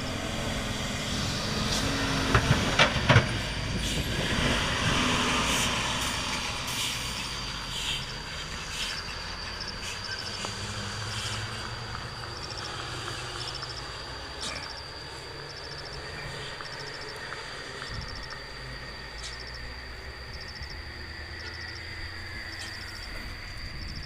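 Overloaded dump truck creeping down a steep descent, its brakes hissing and squealing over a heavy rumble. There are a few sharp clacks about two to three seconds in, and it is loudest in the first few seconds, then eases to a lower steady rumble.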